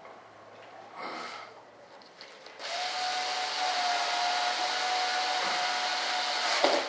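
A small handheld motorised tool runs steadily for about four seconds with an even whine over a rushing hiss, then stops suddenly. A short burst of noise comes about a second in.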